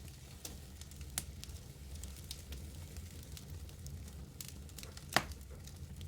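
Wood fire crackling in a fireplace: scattered sharp pops and snaps over a low, steady rumble, with one louder pop about five seconds in.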